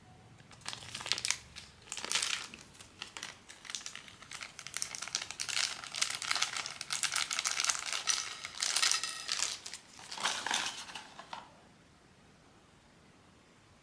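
Plastic packaging of a blind-box figure crinkling and crackling in dense, irregular bursts as it is handled and opened by hand, stopping near the end.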